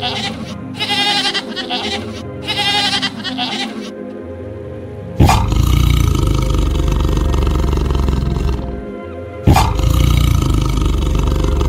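Bleating in short wavering calls over background music, then a lion roaring twice. Each roar is loud, starts suddenly about five and about nine and a half seconds in, and lasts around three seconds.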